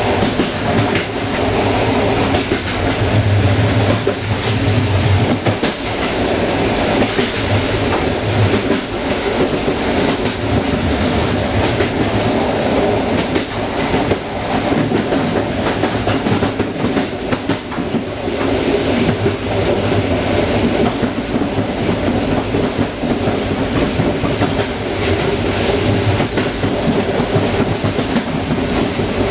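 Passenger train running along the track, heard from the rear of the train: a steady rolling rumble with the wheels clacking irregularly over rail joints.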